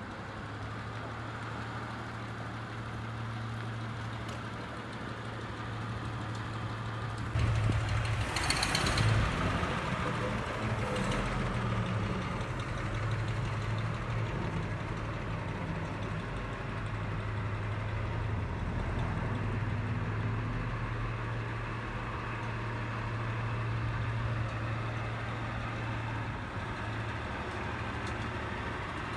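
1933 Rolls-Royce Phantom II's 7.7-litre straight-six engine running steadily at low revs as the car creeps along, the engine newly revived after 44 years laid up. About seven seconds in, a louder rush lasts for about two seconds.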